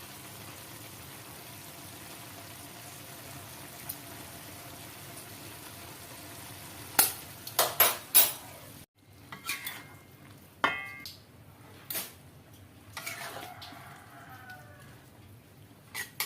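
Food frying in a pan with a steady sizzle. About seven seconds in come several loud sharp clanks of a utensil against the pan. After a short break, scattered clinks and knocks of dishes and cutlery follow.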